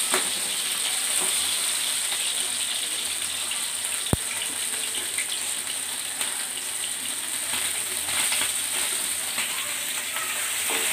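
Pabda fish and drumstick pieces frying in hot mustard oil in a wok: a steady crackling sizzle while a spatula turns and lifts the fried fish. One sharp click about four seconds in.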